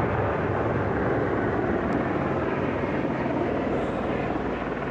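Helicopter flying over: a steady drone of rotor and engine, with a low hum, easing slightly toward the end.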